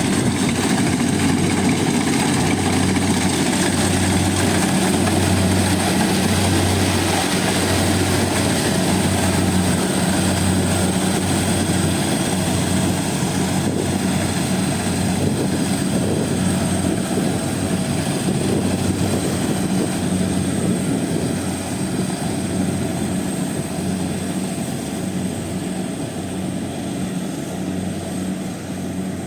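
Combine harvester running steadily while cutting rice: an engine drone under a steady mechanical noise, easing off a little in the last third.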